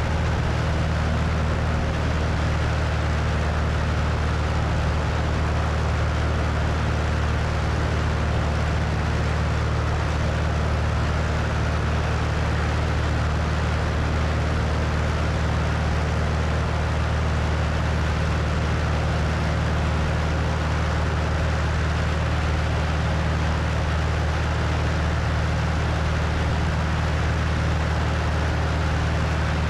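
Cessna 172 piston engine and propeller running at a steady setting in flight, a constant low hum under rushing wind noise on the wing-mounted microphone.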